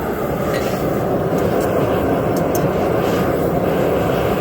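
Forge running with a steady, even rushing noise while the steel heats in it toward forging temperature.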